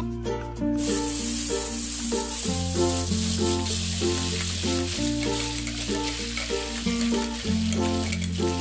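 Blended red chili paste hitting hot oil in a wok and sizzling steadily, the hiss starting about a second in. Background music plays throughout.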